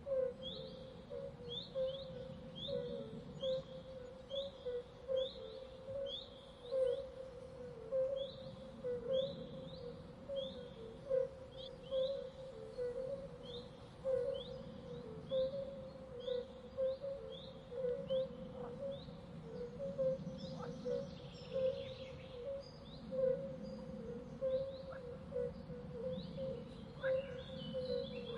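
Birds chirping, short high calls repeated about twice a second, over a steady pulsing lower tone and a low background hiss.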